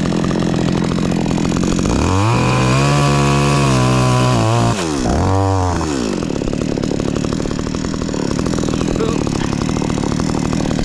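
Two-stroke chainsaw idling, then revved up high about two seconds in and held for a couple of seconds, blipped up once more briefly, and back to idle.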